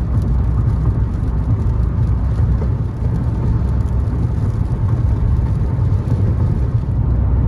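Steady road and engine noise of a car being driven, heard as a constant low rumble from inside the cabin.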